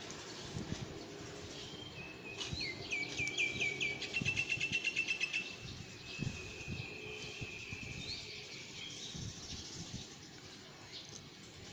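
A bird singing: a run of quick downward-sliding chirps about two seconds in breaks into a fast, even trill, followed by a thinner held whistle and a few short rising notes. Faint low knocks sound underneath.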